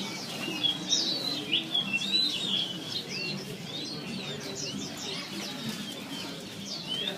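Many caged songbirds chirping and whistling over one another in quick, overlapping high notes, with a low murmur of people's voices beneath.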